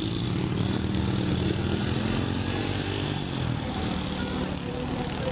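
Motorcycle engine running steadily, its pitch rising and falling a little.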